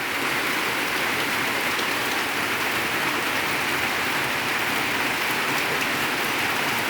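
Steady rain falling: an even hiss that holds at a constant level, with faint scattered drop ticks.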